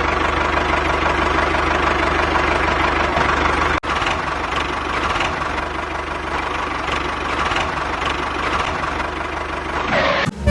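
Small motor of a homemade model tractor and chaff cutter running steadily with a fast, even rattle. It drops out for a moment about four seconds in.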